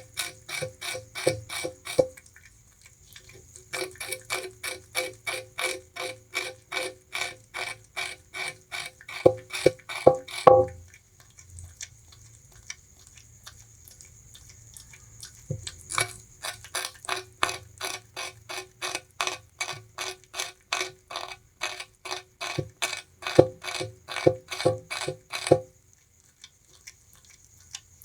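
Bamboo rat gnawing and chewing sugarcane: rapid, even crunches at about four to five a second, in runs broken by a pause after about two seconds, a longer pause from about eleven to sixteen seconds, and a stop near the end.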